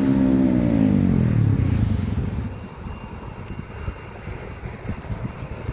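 Jet airliner's engines passing close on its landing approach, the tone sliding down in pitch as it goes by, then dropping off about two and a half seconds in to a low rumble with wind on the microphone.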